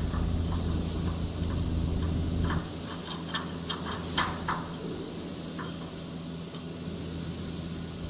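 A steady machine hum that cuts off about two and a half seconds in, followed by a handful of sharp metal clinks and knocks, as of steel parts or tools being handled.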